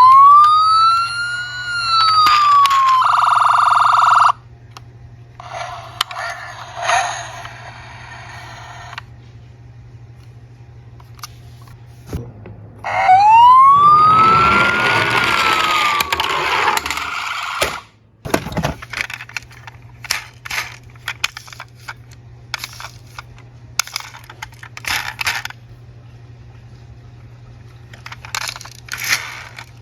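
A police siren wailing up and down, heard twice about thirteen seconds apart. Later come many light clicks and clatters of small toy cars.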